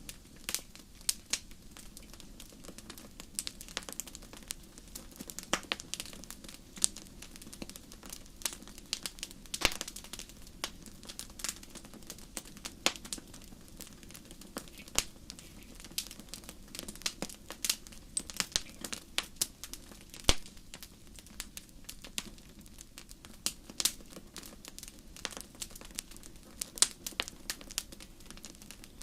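Wood fire crackling in a fireplace: irregular sharp pops and snaps, several a second, over a steady low hiss of the flames.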